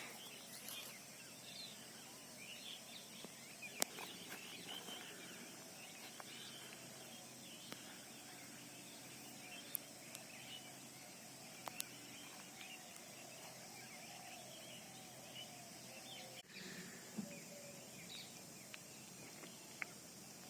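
Faint outdoor ambience with scattered small bird chirps over a steady low background hiss, broken by a few sharp clicks.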